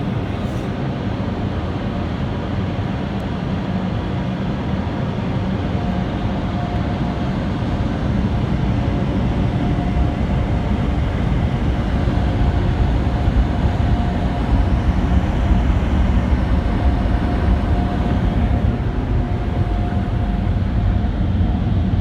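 Onboard dryer blowers of a PDQ LaserWash M5 car wash blowing air over the car, heard from inside the cabin. A steady rush of air with a thin steady whine, growing somewhat louder partway through.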